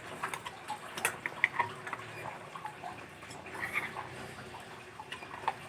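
Noodles being eaten, with scattered small wet mouth sounds and light clicks of utensils against the bowl.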